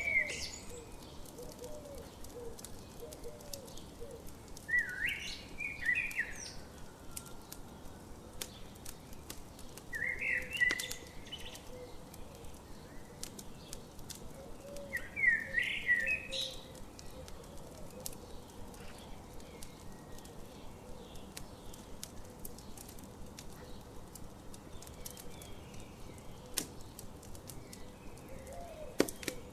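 A songbird singing a short phrase about every five seconds, four times, over the steady snapping crackle of a campfire.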